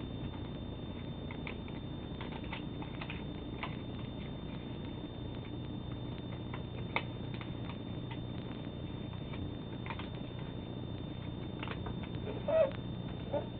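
Sheets of origami paper being folded and creased by hand: scattered soft rustles and small clicks over a steady electrical hum, with a sharper tick about halfway through and a louder, briefly pitched crinkle near the end.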